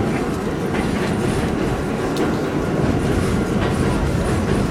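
R46 subway train running between stations, heard from inside the car: a steady rumble of wheels on the rails, with a few faint clicks.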